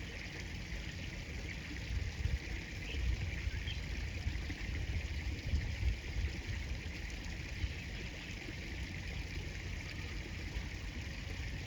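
Steady rush of flowing river water, with irregular low rumbles on the microphone.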